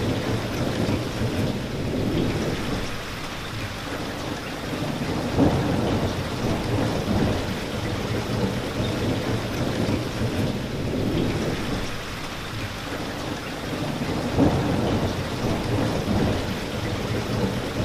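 Steady rain with a low rumble underneath. Two short, louder sounds stand out, about five and a half and fourteen and a half seconds in.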